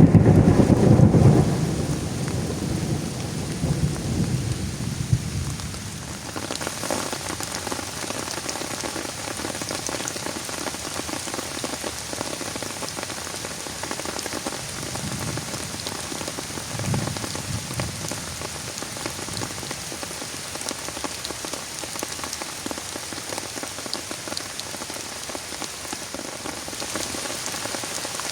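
A loud thunder rumble at the start, dying away over about five seconds, then steady rain falling with fine pattering drops. A fainter low rumble of thunder comes about halfway through.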